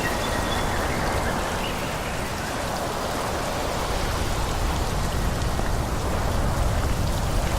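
Steady rushing hiss of wind through forest foliage, with a low gusting rumble building in the last few seconds.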